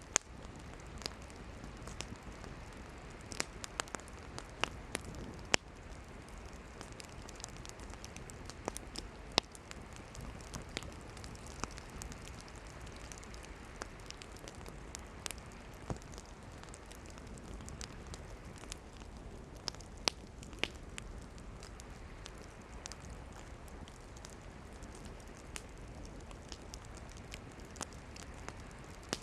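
Wood campfire burning: a steady hiss of flame with irregular crackles and sharp pops of firewood, a few of them loud snaps.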